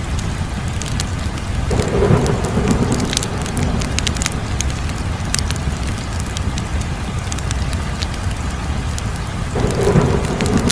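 Wood fire crackling, with frequent sharp pops over a steady low rumble. The fire swells louder twice, about two seconds in and again near the end.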